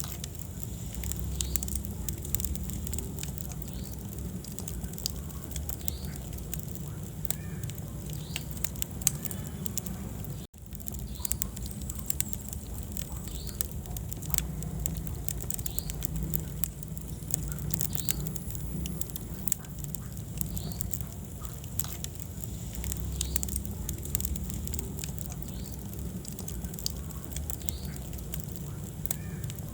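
Wood fire burning in a fireplace: many sharp crackles and pops over a steady low rumble of flame. The sound cuts out for an instant about ten seconds in.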